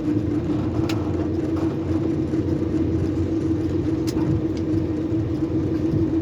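Steady machinery hum from a tower crane, with one constant low tone and rumble beneath, and a few faint clicks.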